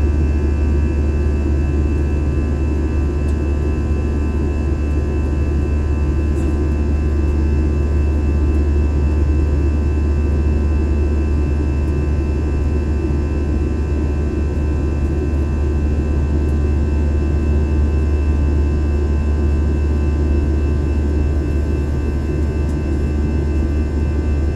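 Steady drone inside a jet airliner's cabin in flight: engine noise and rushing air, with a deep rumble and a few faint steady whining tones over it.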